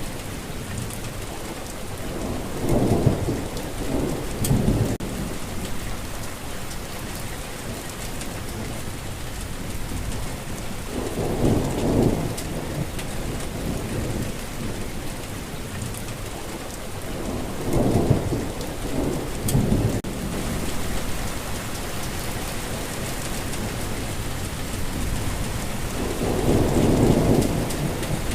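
Steady rain, with short low rumbles of thunder rising above it several times, some of them in quick pairs.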